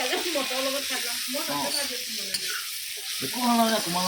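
Meat and potatoes sizzling as they dry-fry in a pan, a steady hiss, with people's voices in the background.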